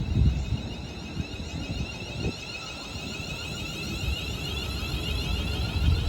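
Class 350 Desiro electric multiple unit pulling away, its traction motors giving a whine of several tones that rise in pitch and grow louder, over a low rumble.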